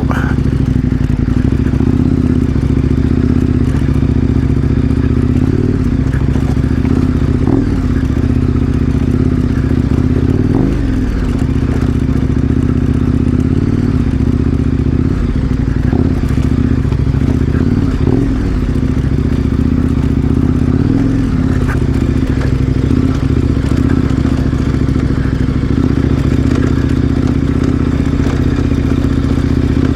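KTM 1090 Adventure R's parallel-twin engine running at low, steady revs while riding down a dirt trail. Its pitch dips and rises briefly a few times.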